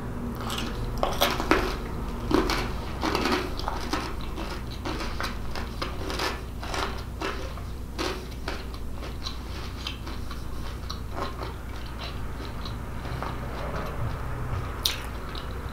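Close-up chewing of a mouthful of pull-apart cheese bread: a steady run of many small mouth clicks, with one sharper click near the end.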